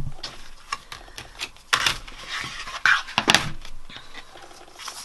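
Embossing folder and cardstock being handled: scattered rustles, clicks and scrapes, with a few louder scrapes about two and three seconds in.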